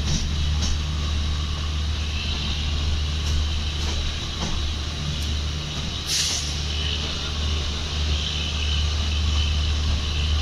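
Passenger train coach running along the track, heard from inside at the window: a steady low rumble of wheels on rail with rushing air and a few faint clicks. A short sharp hiss comes about six seconds in.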